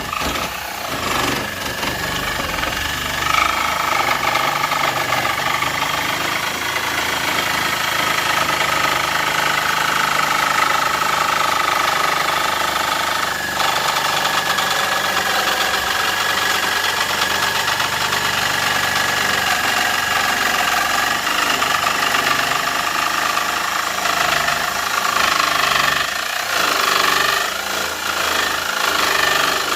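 Electric jigsaw running steadily while cutting through a white oak board, its reciprocating blade giving a loud, buzzing rattle.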